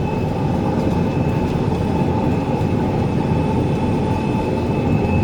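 An Acros 585 combine harvester running steadily under load with its threshing unit engaged, heard from inside its cab: a dense low rumble with a thin steady whine above it.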